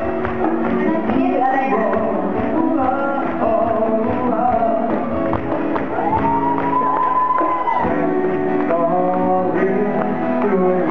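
Live Thai pop music: a band playing with singing, including one long held high note about six seconds in that lasts nearly two seconds.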